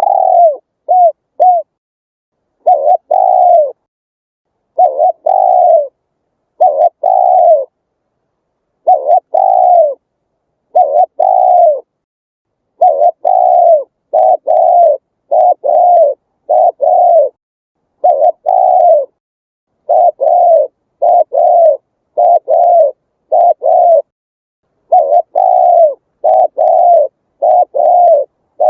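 Spotted dove cooing: a string of short coos, each rising and falling in pitch, delivered in close groups of two to four with short pauses between.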